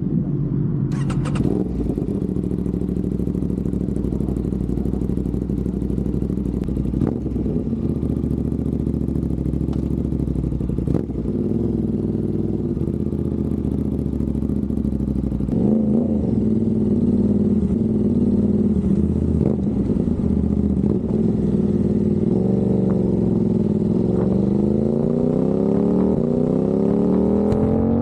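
Aprilia RS660 parallel-twin engine running through a non-resonated Mivv XM-1 Evo exhaust, with a deep, bassy tone. It idles steadily, gets a short throttle blip about halfway through, and the revs climb steadily near the end.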